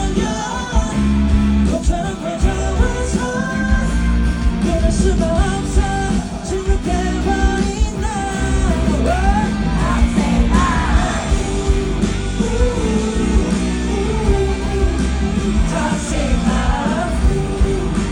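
Live rock band playing with a singer: drums, bass and guitar under a sung melody line.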